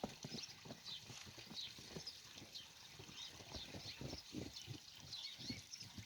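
Footsteps crunching in fresh snow: a quick, uneven series of soft crunches.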